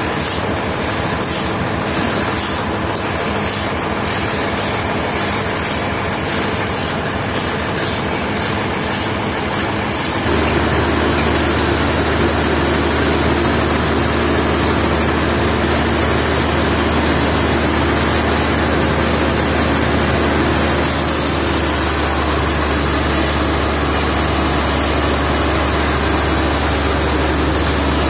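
Sawmill machinery running steadily, a loud continuous mechanical noise that changes abruptly about ten seconds in to a steadier, lower hum, and shifts again about two-thirds of the way through.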